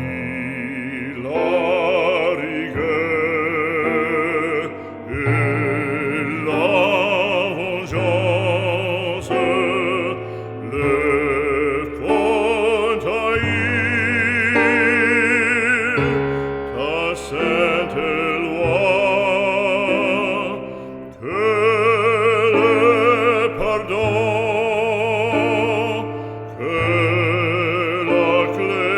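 Operatic solo voice singing held notes with a wide vibrato over sustained low accompaniment.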